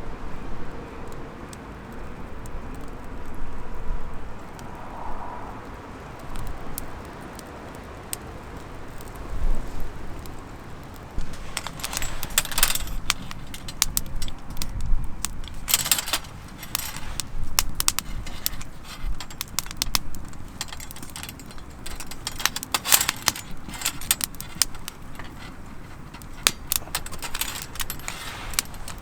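Light metallic clinking and rattling of small gear being handled, in scattered clusters from about eleven seconds in, over a low steady rumble.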